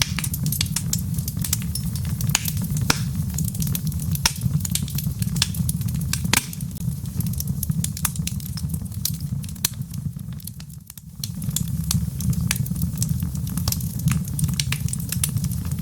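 Wood fire burning in a fireplace: frequent sharp crackles and pops of burning logs over a steady low rumble of flame. About two-thirds of the way through, the rumble dips briefly, then returns.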